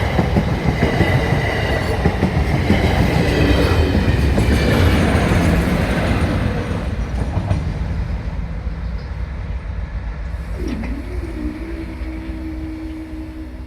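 Train hauled by GBRf class 56 and class 50 diesel locomotives passing, loud at first and fading away steadily from about six seconds in.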